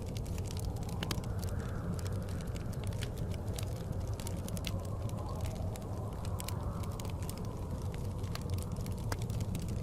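Wood fire crackling with scattered sharp pops over a steady low rumble of blizzard wind, which swells faintly now and then.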